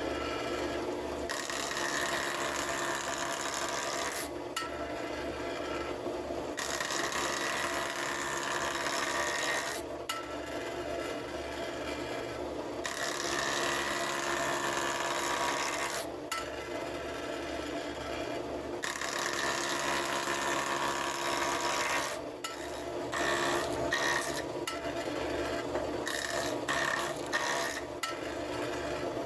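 Wood lathe running steadily while a turning tool or abrasive works the spinning wood, a hissing scrape that comes and goes in stretches of a few seconds.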